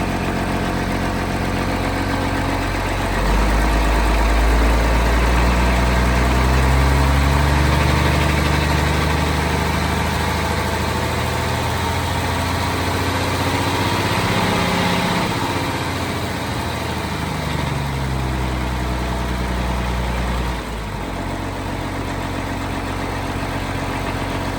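International DT466 inline-six turbo diesel idling, then held at raised revs: about three seconds in it gets louder and its pitch climbs steadily to a peak about halfway through, then eases back down. With about four seconds left it drops suddenly back to a steady idle.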